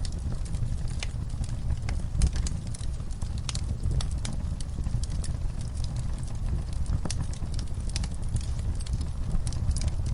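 Wood fire in a fireplace crackling: irregular sharp pops and snaps, several a second, over a steady low rumble of the flames. One pop about two seconds in stands out as the loudest.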